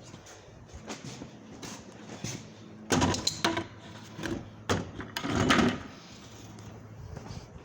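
Irregular knocks and clatter, with two louder spells of banging about three and five seconds in.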